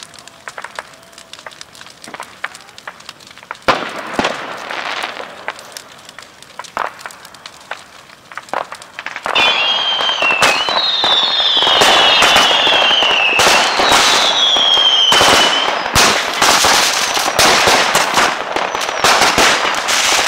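Fireworks and firecrackers going off: scattered pops at first, a short burst of crackling about four seconds in, then from about nine seconds a loud, dense barrage of crackling bangs with several descending whistles.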